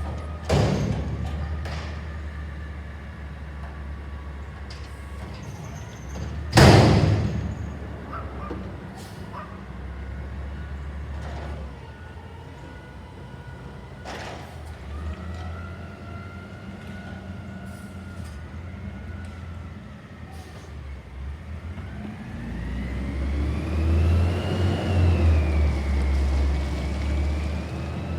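CNG Peterbilt 320 front-loader garbage truck running, with a faint whine that wavers in pitch, a short bang near the start and a loud bang about six and a half seconds in. In the last few seconds the engine revs up louder, rising and then falling in pitch.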